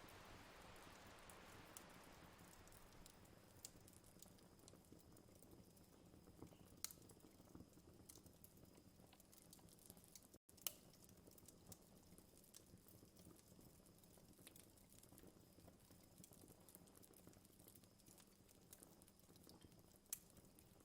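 Faint crackling campfire: scattered irregular pops and snaps over a low hiss, with a soft gust of wind dying away in the first couple of seconds.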